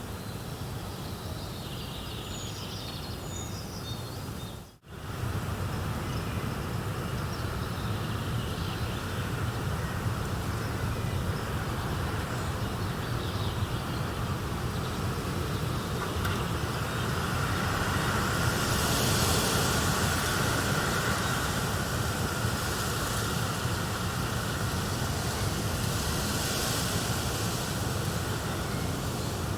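Steady nature-ambience recording: a continuous rushing hiss with a few high chirps in the first few seconds. It drops out for an instant about five seconds in and resumes a little louder, swelling slightly past the middle.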